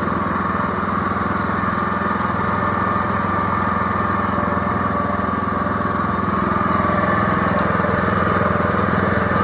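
Small engine of a farm vehicle running steadily at an even speed as it drives across a field, with a constant high whine over the engine note.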